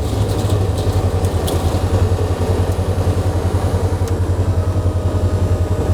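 Vehicle engine running at low speed: a steady, evenly pulsing low throb.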